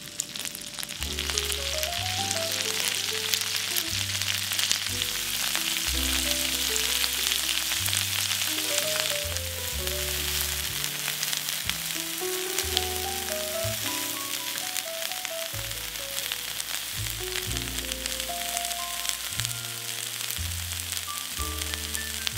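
Cauliflower florets sizzling as they fry in melted butter in a frying pan, turned now and then with a spatula. A steady hiss, loudest in the first half, over background music with a melody and bass line.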